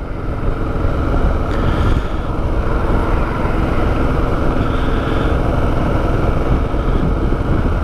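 2009 Kawasaki KLR650's single-cylinder engine running at a steady cruising pace, under a steady rush of wind and road noise.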